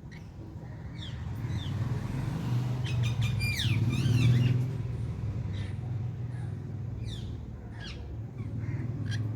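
Birds calling outdoors: repeated short, high calls that fall in pitch, with a burst of harsh squawks about three to four seconds in. Underneath is a low rumble that swells and fades.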